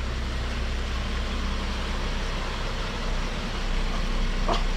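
A car engine running steadily at low speed, with a brief high, pitched sound near the end.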